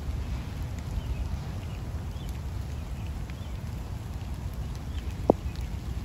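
Rainy outdoor ambience: an even hiss of light rain over a low rumble, with faint, scattered bird chirps. One sharp tap sounds a little after five seconds in.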